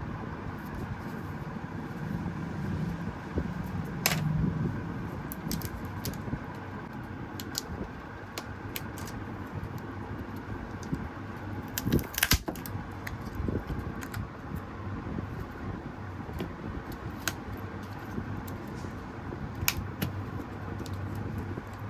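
Small tools and phone parts being handled on a workbench: scattered light clicks and taps, with a louder burst of clatter about twelve seconds in, over a steady background hum.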